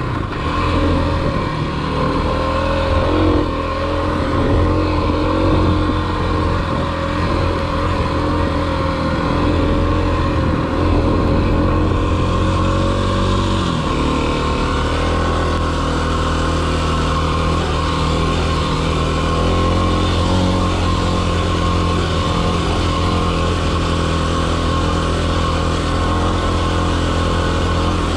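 Kawasaki KLX300 dual-sport motorcycle's single-cylinder engine running under steady throttle. Its pitch rises and falls with the throttle and drops clearly about halfway through.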